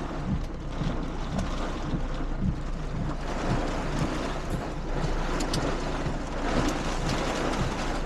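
Heavy rain hitting the car's roof and glass, heard from inside the cabin as a dense steady hiss with scattered sharper ticks over a low engine hum. It grows heavier about three seconds in.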